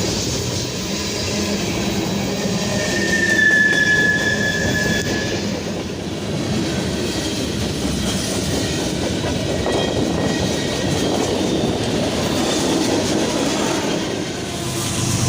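A train passing close by, its cars rolling over the rail joints with a steady rumble and clickety-clack, and a brief high wheel squeal about three seconds in.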